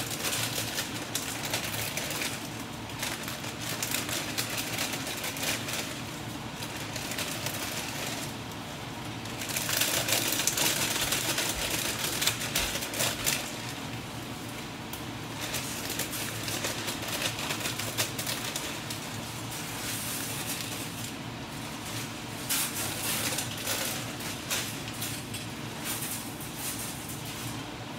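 Stir-fry sizzling and crackling in a nonstick wok over a gas flame. It grows louder for a few seconds near the middle, as the pancit noodles go into the hot pan.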